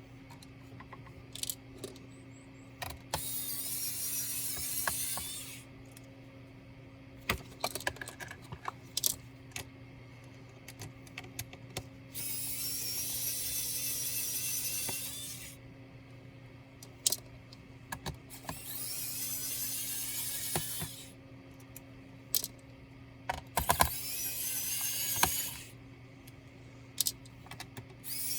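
Small electric screwdriver spinning out the screws of an ASUS K3605Z laptop's bottom case: about five runs of a few seconds each, with the pitch rising near the end of some runs. Between the runs come sharp clicks and taps of screws and tools on the case.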